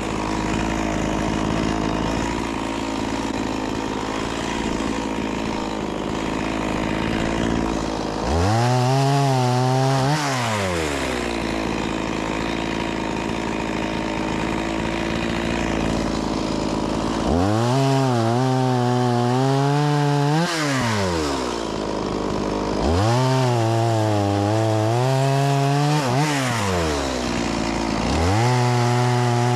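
Stihl MS 180 C-BE two-stroke chainsaw idling, then revved up to full throttle four times as it cuts wood. Each time the pitch climbs, holds high with a slight waver under the load, and falls back to idle; the last rev-up starts near the end.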